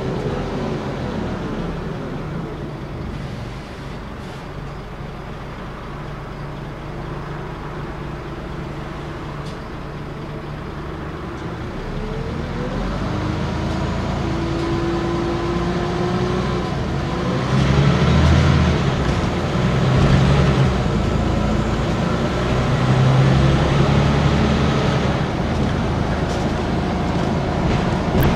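Scania N94UB bus engine and drivetrain running. It eases off a few seconds in, then from about twelve seconds in it pulls away with a rising whine, and it runs louder from about seventeen seconds in.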